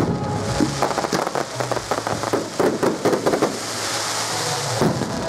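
Fireworks crackling: a dense run of rapid, irregular pops and crackles, with a few louder bangs among them.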